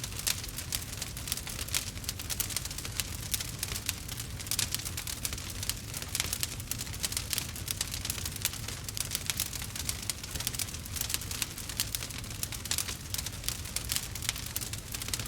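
Burning wood fire crackling and popping steadily, with many small sharp snaps each second over a low rumble.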